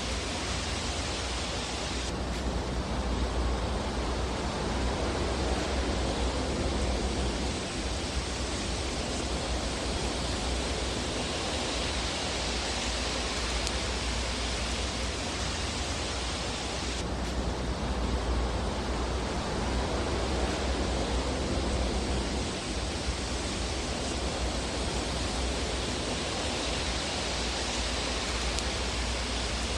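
Steady rushing noise of a fireplace ambience track: an even hiss over a low rumble, with no distinct pops or crackles. Its tone shifts slightly and suddenly about two seconds in and again a little past halfway.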